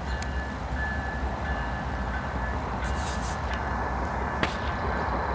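Intermodal freight train rumbling steadily, with a low rumble and hiss and a couple of sharp clicks.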